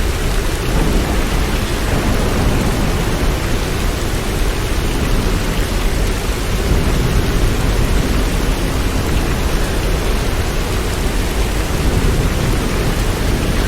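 Steady rain: a dense, even hiss with no single drops or claps standing out, heaviest in the low end.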